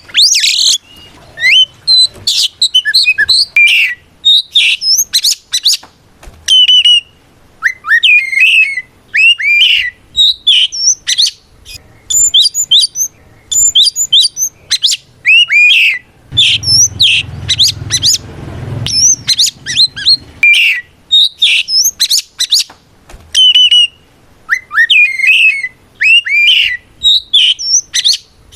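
Oriental magpie-robin (kacer) singing a loud, varied song in quick phrases of clear whistles, sharp glides and trills, with short pauses between them. A low rumble sits under the song for a few seconds in the middle.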